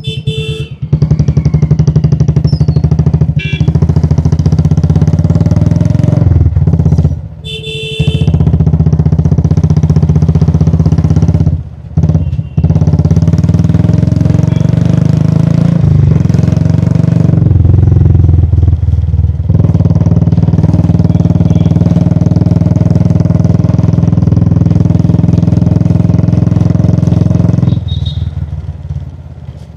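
Royal Enfield Classic 350's single-cylinder engine running steadily on the move. The engine note drops off briefly several times, as on closing the throttle, and falls away near the end. Two short high beeps sound, one near the start and one around seven seconds in.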